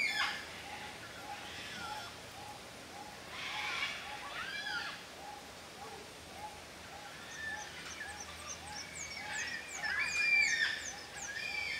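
Wild birds calling: a steady run of short repeated notes about twice a second, with louder, higher calls about four seconds in and again near ten seconds, and a quick series of high falling whistles near the end.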